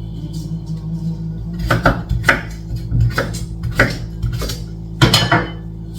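A knife cutting carrots on a chopping board: about six separate sharp knocks, spaced roughly half a second to a second apart, over soft background music.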